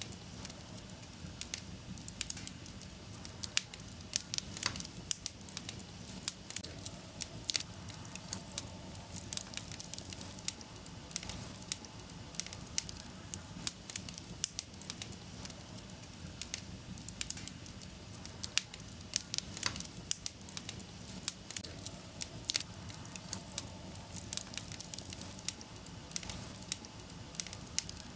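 Wood fire crackling in a fireplace: frequent, irregular sharp pops and snaps over a steady low rustle of the flames.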